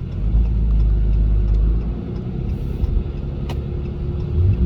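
A vehicle driving slowly, with a steady low engine and road rumble and a few faint clicks or knocks.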